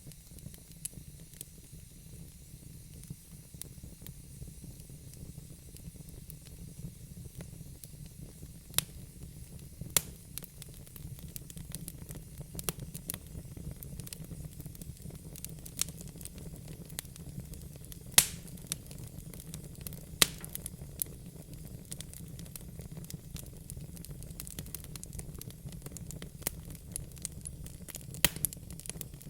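Wood fire burning in a fireplace: a steady low rumble and soft hiss, with scattered sharp crackles and pops from the burning logs, several standing out louder.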